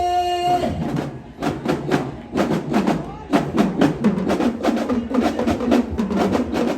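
Drum team playing a fast, even cadence of sharp drum and stick strikes, with crowd voices underneath. A held note ends about half a second in, just before the drumming takes over.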